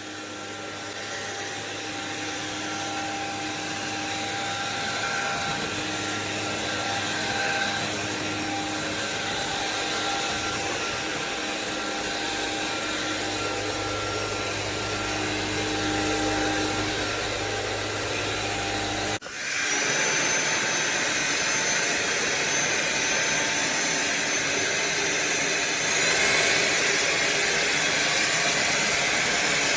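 Cordless stick vacuum running with a steady whine. About two-thirds of the way through it cuts off abruptly and resumes louder and brighter, and the whine steps up in pitch near the end.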